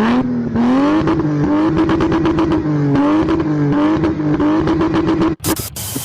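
A car engine revs up and is held at high revs, its pitch wavering slightly, then stops a little before the end. Two loud rushing bursts of noise follow.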